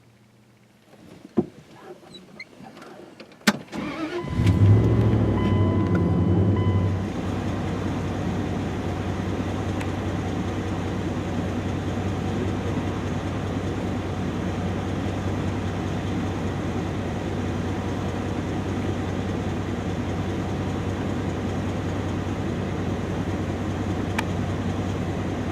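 A few sharp clicks, then a vehicle engine starting about four seconds in. It runs fast and louder for a few seconds, then settles to a steady idle.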